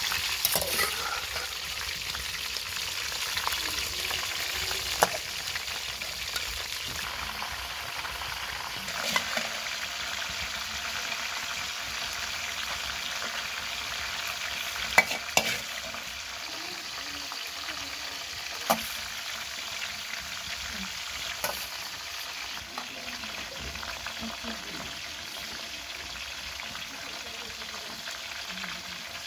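Sliced potatoes, eggplant and tomatoes frying in oil in an aluminium pot, a steady sizzle, with a few sharp clinks of a metal slotted ladle against the pot and bowl.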